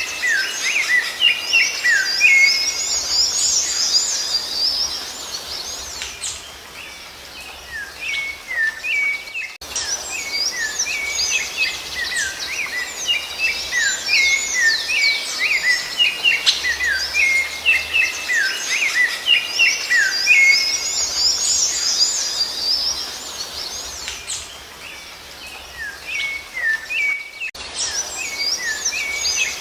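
A chorus of small songbirds chirping together, many short, quick downward-sliding notes overlapping, over a faint background hiss.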